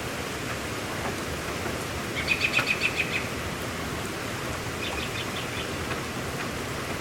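Steady rain, with a bird calling twice over it: a quick run of repeated chirps about two seconds in, and a fainter run near five seconds.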